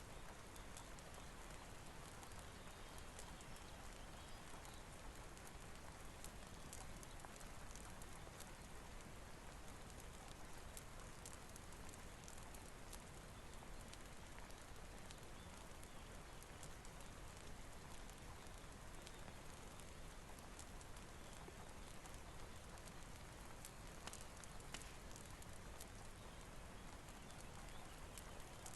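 Steady hiss of rain with scattered sharp ticks and crackles, as from a wood fire burning, faint and even throughout.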